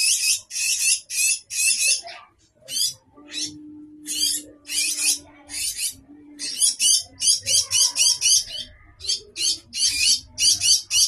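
Common myna giving a long run of short, harsh squawking calls, about two to three a second, with brief pauses between runs.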